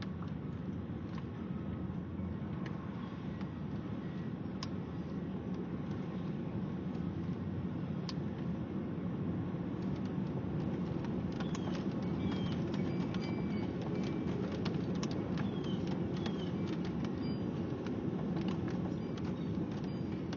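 Steady low rumbling noise that slowly builds, with scattered faint clicks throughout and a few short high chirps from about halfway on.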